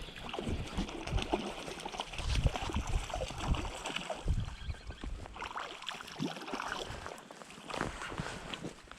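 Creek water running and splashing, with irregular knocks and handling noise, as a hooked brown trout is fought in the current.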